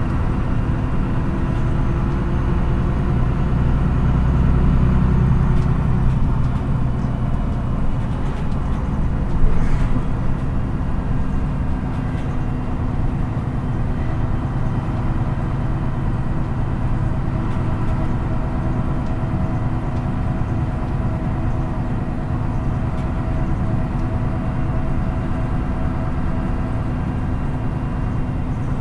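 MAN NÜ 313 bus engine and drivetrain heard from on board while driving: a steady running hum with several engine tones. A deeper rumble swells for a few seconds near the start, and there is a single short knock about nine and a half seconds in.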